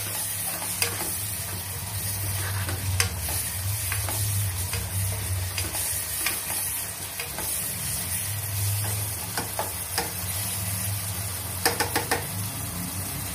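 Chopped onions and tomatoes sizzling in ghee and oil in a deep pan while a spatula stirs them, scraping and tapping against the pan now and then, with a quick run of taps near the end.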